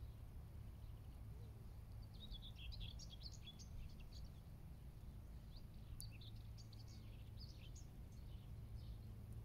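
Faint outdoor ambience: small birds chirping in scattered bursts, about two seconds in and again from about six seconds in, over a low steady background rumble. There is one brief click about six seconds in.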